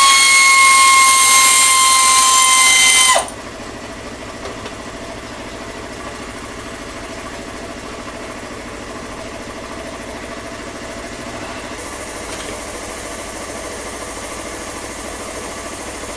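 A power tool spinning at high speed, a loud steady whine whose pitch sags slightly, stops suddenly about three seconds in. A steady mechanical hum continues after it.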